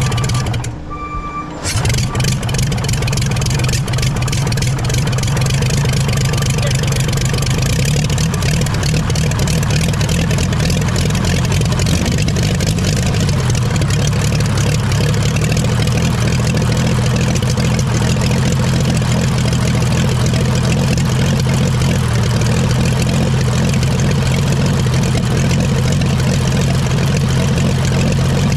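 Oliver 77 tractor's six-cylinder gasoline engine running steadily after being pull-started. The sound drops away briefly about a second in, then carries on evenly.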